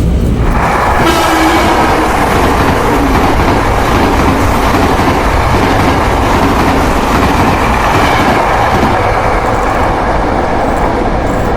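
Train running along the track: a loud, steady noise of wheels on rails.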